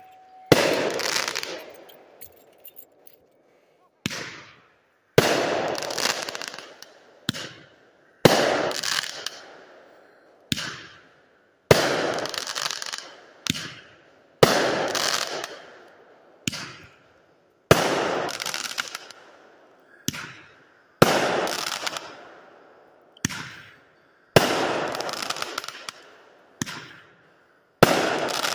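Consumer aerial fireworks firing shell after shell. Each shot is a short launch pop, then about a second later a loud bang that fades out. About nine shots go off, roughly every three seconds.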